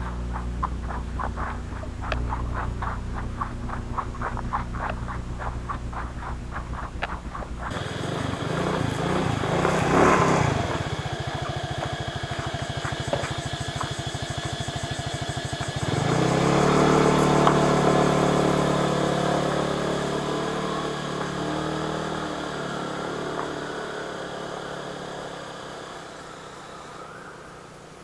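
An engine running, with a change in its sound about a third of the way in and a louder stretch from about halfway that slowly fades.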